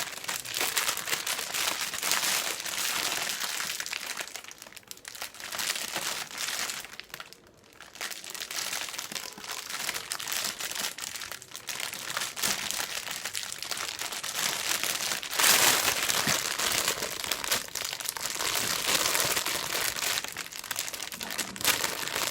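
Plastic packaging crinkling and rustling as it is handled and worked open, with a short lull about seven seconds in and a louder burst of crinkling after about fifteen seconds.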